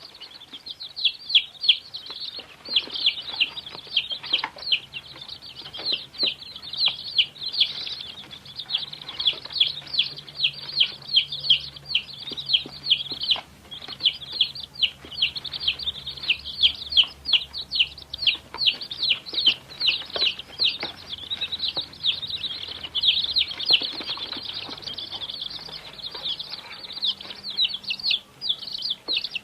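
Baby chickens (chicks) peeping: a steady stream of high, short peeps, each falling in pitch, several a second and overlapping.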